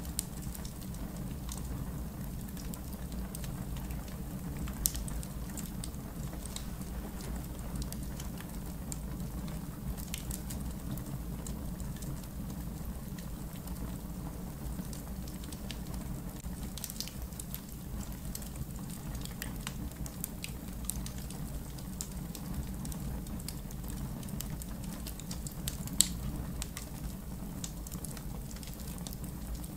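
Wood campfire in a fire pit burning steadily: a low continuous rumble of the flames with frequent small crackles and a couple of louder sharp pops, about five seconds in and near the end.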